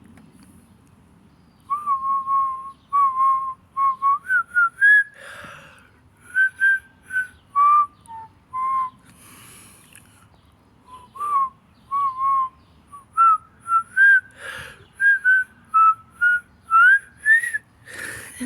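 A woman whistling a tune: a melody of clear, pure notes in short phrases, with quick breaths drawn between phrases and a short pause about halfway through.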